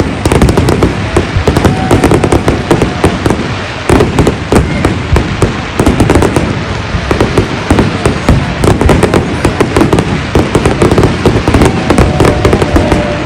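Large aerial fireworks display going off in a dense barrage: many overlapping bangs and crackles every second.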